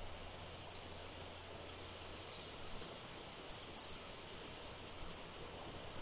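Small birds giving short, high-pitched chirps in scattered clusters over a faint steady hiss.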